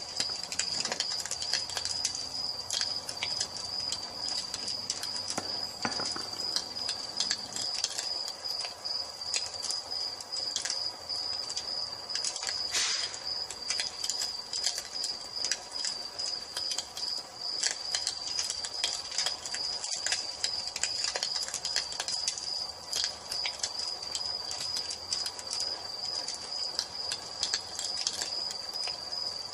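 Crickets chirping in a steady high trill, with a wood fire crackling in irregular small pops.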